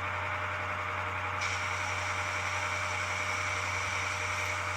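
Sound decoder of an H0-scale ES44AC model locomotive playing a steady air hiss of the sanding valves over the idling diesel engine sound; the hiss gets brighter about a second and a half in.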